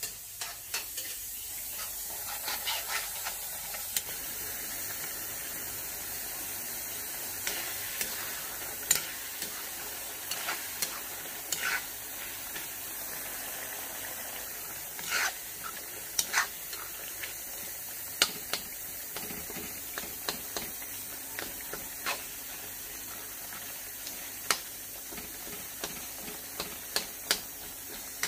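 Curry gravy sizzling and bubbling in a metal wok, with a metal spatula stirring and scraping, clicking against the pan now and then.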